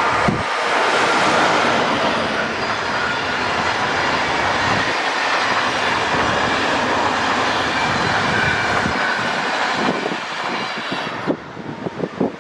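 Train hauled by an SBB Re 420 (Re 4/4 II) electric locomotive passing at speed: a steady loud rush of wheels on rail with faint high tones over it, dropping away sharply near the end.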